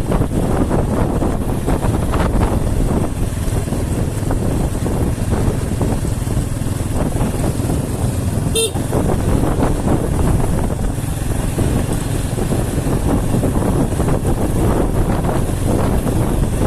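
A road vehicle driving along, a steady rumble of engine, tyres and wind noise. About halfway through there is one brief high beep.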